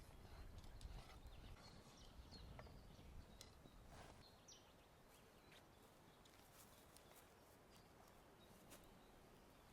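Near silence: faint riverside ambience with a few soft clicks and brief faint bird chirps, mostly in the first half.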